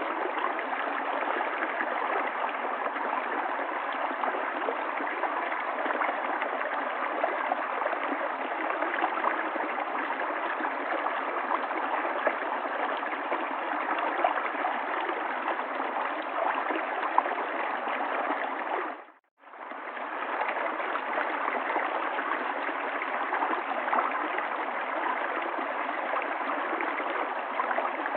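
River water flowing steadily over stones, a continuous rushing and gurgling. About 19 seconds in it fades out for roughly half a second and fades back in.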